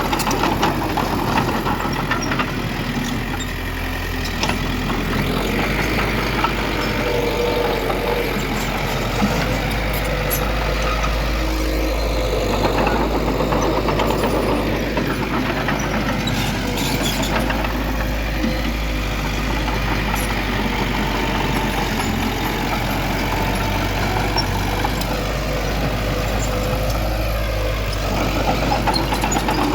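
Diesel engine of heavy earthmoving machinery running steadily under load, its note dipping and rising a few times as the throttle changes.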